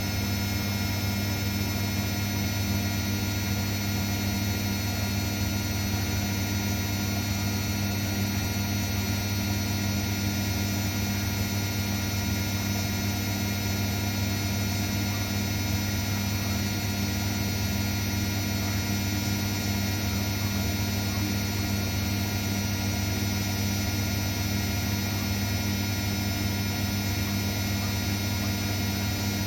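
Zanussi washing machine running with a steady low electrical hum that does not change.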